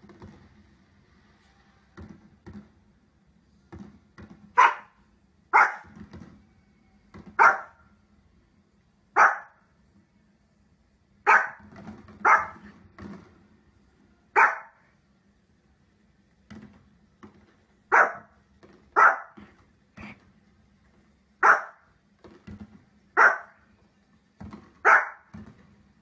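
Small fluffy spitz-type dog barking in single sharp barks, about a dozen of them spaced a second or two apart, starting about four seconds in. Faint low thumps come before the first bark.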